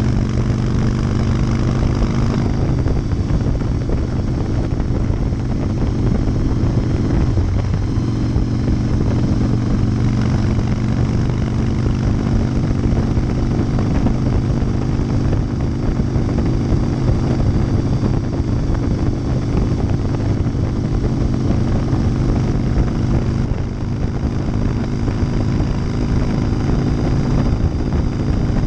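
Harley-Davidson Softail Deuce's 88-cubic-inch Twin Cam V-twin running steadily at freeway cruising speed through Vance & Hines baffled exhaust, heard close up from beside the engine. The engine note dips briefly about seven seconds in, and the level drops for a moment near the 24-second mark.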